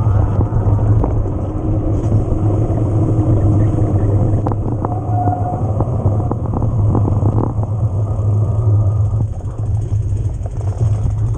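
Steady rumble of wind on the camera microphone and tyres over rough ground on an e-mountain bike ride, with scattered rattles and knocks from the bike.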